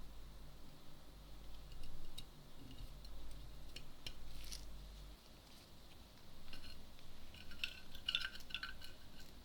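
Light metallic clicks and clinks of small tools and camera parts being handled, coming in scattered groups and busiest near the end.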